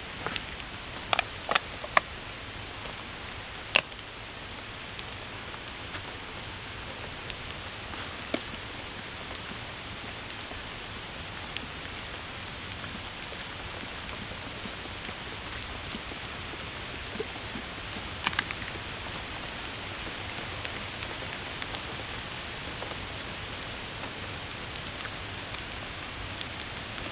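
Steady rain falling, an even patter, with a few sharp single ticks of heavier drops landing, clustered in the first few seconds and again once about two-thirds of the way through.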